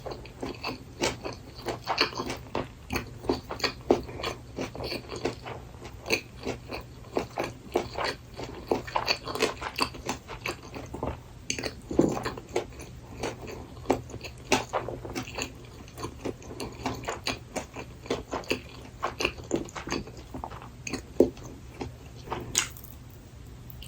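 Close-miked chewing of burdock gimbap: a continuous run of sharp, moist mouth clicks and crunches, several a second.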